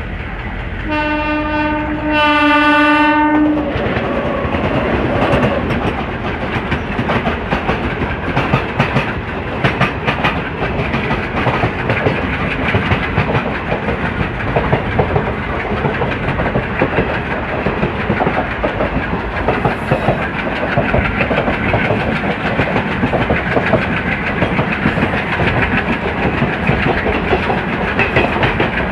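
A train horn blasts twice about a second in, a steady single note, the second blast longer and louder. It is followed by the continuous rolling clatter of ICF passenger coaches over rail joints, with rapid clicks and thumps, while another train passes close on the adjacent track.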